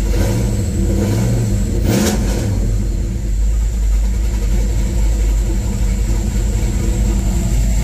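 Car engine running steadily, with a brief swell of noise about two seconds in.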